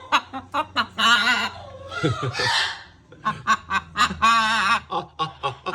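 A macaw calls in a series of short, raspy calls that waver in pitch, with a harsh squawk about two seconds in and a longer call near the end.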